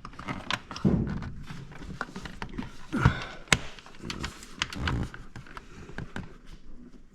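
Irregular knocks, taps and clunks of parts being handled and fitted during car servicing, the loudest about one second and three seconds in.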